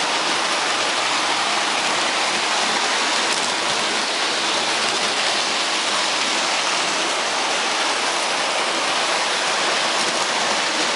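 A steady, even rushing hiss with no breaks, tones or rhythm.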